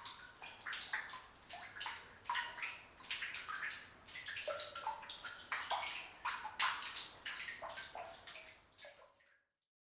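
Water trickling and splashing with irregular gurgles and drips, cutting off suddenly about nine seconds in.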